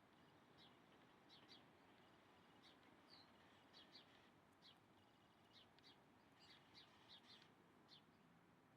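Faint bird chirping: many short, high chirps in an irregular stream over a low steady hiss.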